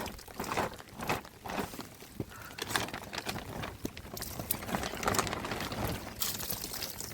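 Irregular rustling and crinkling with scattered light knocks, the sound of hands handling materials.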